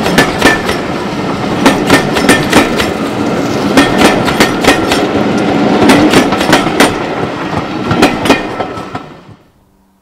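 A train passing close by, its wheels clicking and clattering over rail joints several times a second over a steady rumble; the sound dies away near the end.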